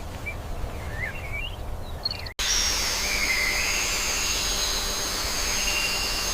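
A few short, wavering bird chirps, then an abrupt cut to a steady hiss carrying high, sustained whistling tones.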